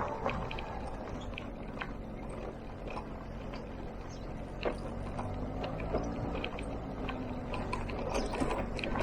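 Motor scooter engine running while riding, its pitch rising and falling in the second half, with frequent sharp rattles and knocks from the ride over rough ground.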